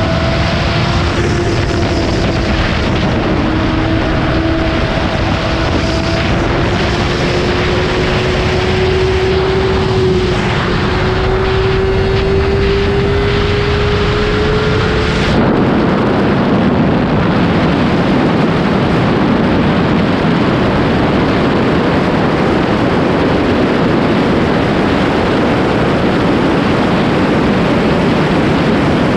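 Honda CBR600RR inline-four engine accelerating in a high gear, its pitch climbing slowly with road speed. About halfway through, the sound changes abruptly to a loud, even rush of wind noise at very high speed that covers the engine.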